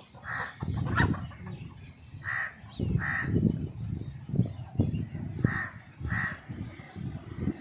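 A crow cawing: about five short, harsh caws, several of them coming in pairs, over a low rumble.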